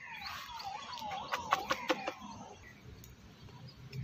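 A bird calling: a quick series of chirps and short falling notes over the first two seconds or so, then only faint background.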